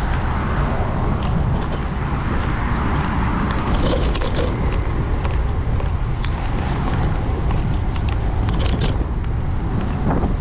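Steady wind rush and road rumble picked up by a camera on a moving bicycle, with scattered small clicks and rattles.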